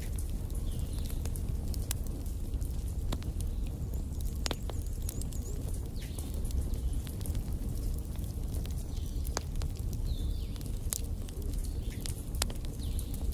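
Wood fire burning in a fireplace: a steady low rumble of flames with scattered sharp crackles and pops from the logs, and a few brief high whistles.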